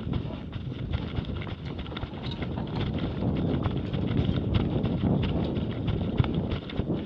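Running footsteps on a rocky dirt trail: a quick, uneven string of footfalls, a few a second, over a low rumble of movement.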